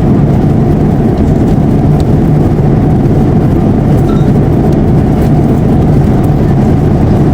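Airliner cabin noise in flight: a loud, steady rumble of engines and rushing air, with no changes.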